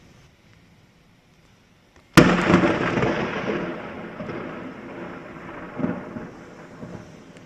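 Close thunderclap: a sudden sharp crack about two seconds in, followed by rumbling that fades over several seconds and swells once more near the end.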